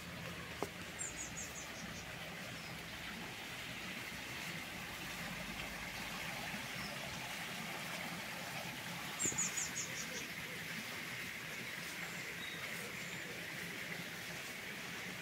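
Garden ambience: a steady hiss, with a small bird calling twice, each call a quick run of five or six very high chirps falling in pitch, once about a second in and again, louder, about nine seconds in.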